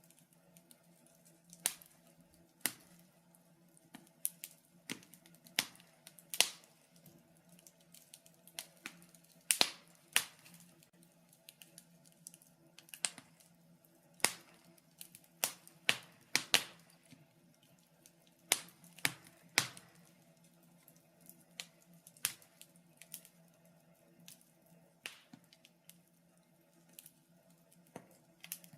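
Wood fire in a fireplace crackling: irregular sharp pops and snaps at uneven intervals over a faint steady low hum.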